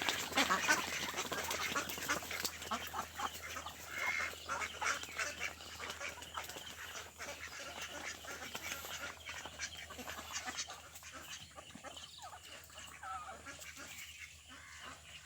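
A flock of ducks quacking and calling over one another, busiest in the first few seconds and thinning out toward the end.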